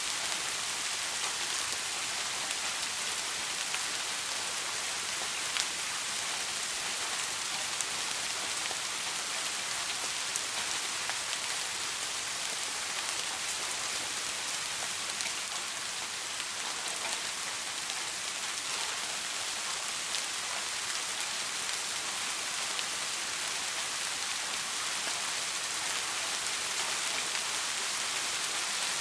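Soft rain falling steadily: an even, high hiss with scattered sharper raindrop ticks.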